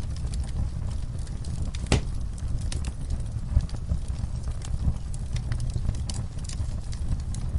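Wood fire burning in a fireplace: a steady low rumble of the flames with irregular sharp crackles and pops, one louder pop about two seconds in.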